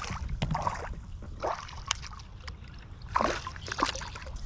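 Short bursts of splashing and dripping water, with a few sharp clicks, from a small bass being landed and handled at a kayak. A steady low rumble runs underneath.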